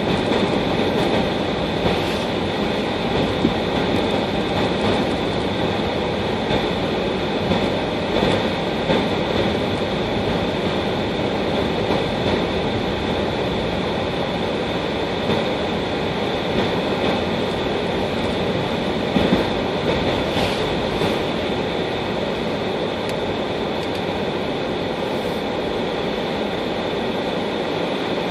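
Steady road and tyre noise inside a moving car on snowy roads, with a constant high whine and occasional small knocks and bumps.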